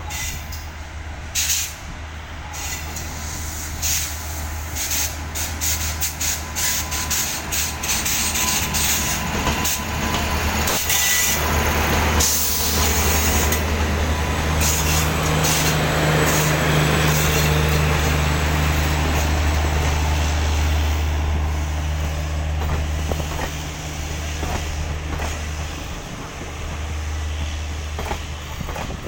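Indian Railways Garib Rath Express train, hauled by a WAP-5 electric locomotive, arriving and running past: a quick series of wheel clicks over the rail joints for the first dozen seconds, then a steady rushing of the coaches that swells in the middle and eases toward the end, over a low hum.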